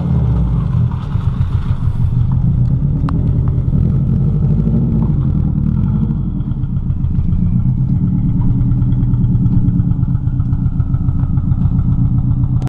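Subaru GC8 Impreza's freshly rebuilt flat-four boxer engine running at low, fairly steady revs with a fast, even exhaust pulse as the car is driven slowly.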